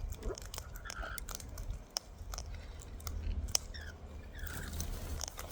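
Wild cockatoos' beaks gnawing and crunching close by: a run of sharp, irregular clicks and cracks.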